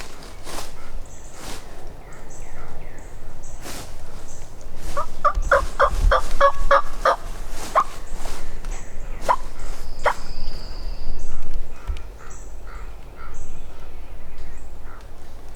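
Wild turkey gobbler gobbling: a rapid, rattling run of notes about five seconds in, lasting a couple of seconds, with a few sharp single notes after it. Scattered sharp clicks are heard throughout.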